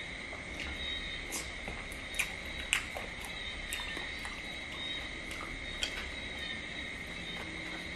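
A person chewing crab close up, with a few sharp cracks and crunches of shell, over a steady high-pitched background drone.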